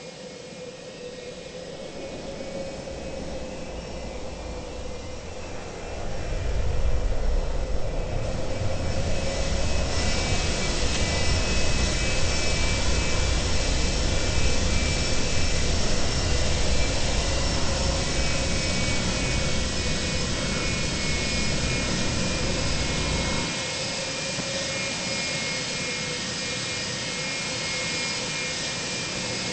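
Boeing 737-200's Pratt & Whitney JT8D turbofans heard from inside the cabin, spooling up to a loud steady run with a deep rumble underneath. The rumble drops away suddenly about 23 seconds in while the engine tones carry on, as when the wheels leave the runway on takeoff.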